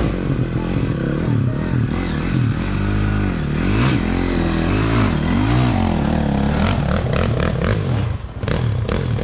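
Dirt bike engine revving up and falling back several times in a row, followed near the end by a run of short clattering knocks.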